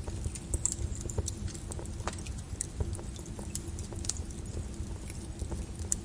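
Lava crackling and popping irregularly over a steady low rumble.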